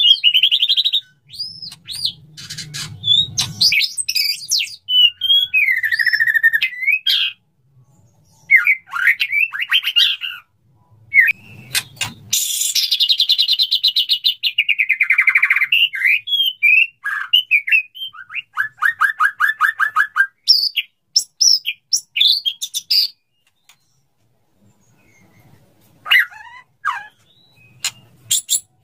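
Male white-rumped shama singing its courtship song to a female: loud, varied phrases of clear whistles, pitch glides and rapid trills in bursts, broken by short pauses.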